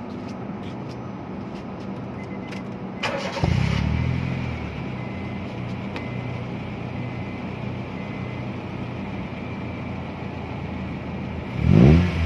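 Honda City GM2's four-cylinder engine through an HKS aftermarket exhaust: it is started about three seconds in, catches with a loud fast idle that settles into a steady idle, and is revved once briefly near the end.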